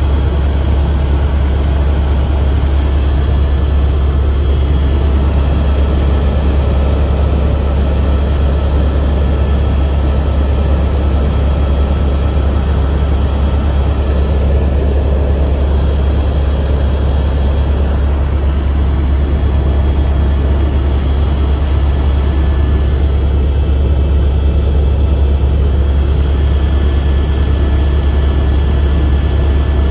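Helicopter cabin noise in flight: a loud, steady low drone of the turbine engine and rotor that does not change.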